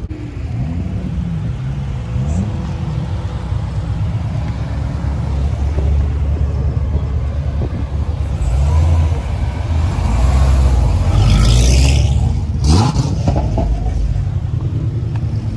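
Car engine running close by as a low rumble that swells louder about halfway through, with a quick rev rising in pitch near the end.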